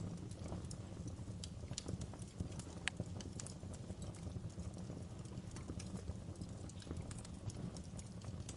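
Wood fire crackling: irregular sharp pops and snaps over a steady low rumble, with one sharper snap about three seconds in.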